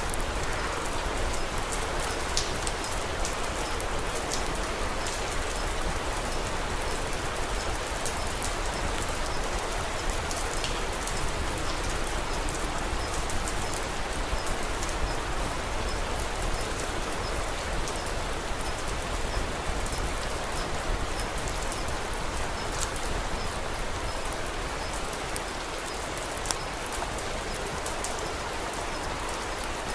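Steady rain falling, mixed with the scattered small crackles of a wood fire.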